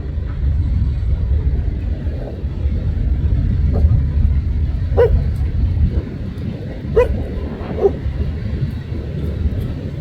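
A dog barking three short times over a steady low rumble.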